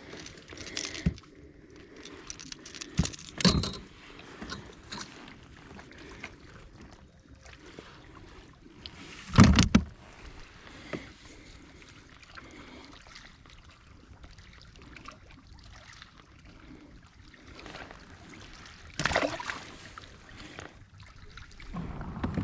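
Knocks, clinks and rattles of gear being handled aboard a fishing kayak. A loud thump comes about nine and a half seconds in, and another knock near the end, over a low steady background noise.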